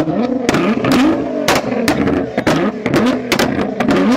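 Car engine revved repeatedly in short blips, its pitch rising and falling, with many loud sharp bangs from the exhaust between and over the revs.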